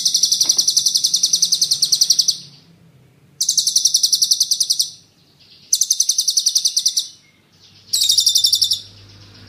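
Songbird masteran song: four rapid rolling trills of fast, evenly repeated high notes, about a dozen a second, each trill one to two and a half seconds long with short pauses between.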